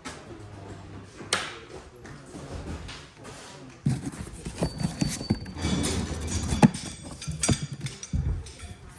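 Irregular knocking and clattering: one sharp knock about a second in, then a dense stretch of knocks and clatter through the second half.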